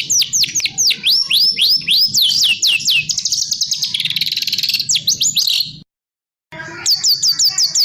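Songbird song of the kind used as masteran tutor recordings: sharp, fast, repeated downward-sweeping whistles that run into a rapid trill, then a brief silent break and another run of quick falling notes.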